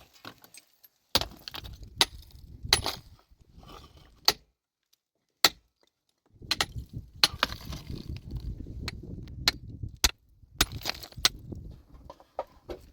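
Metal tools such as pickaxes striking rock in sharp, irregular blows, each with a brief ring. A low rumbling runs under the blows from about halfway in until near the end.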